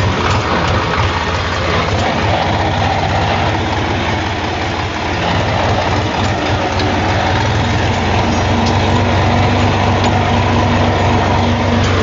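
HMT tractor's diesel engine running steadily, with a slight dip in loudness about five seconds in.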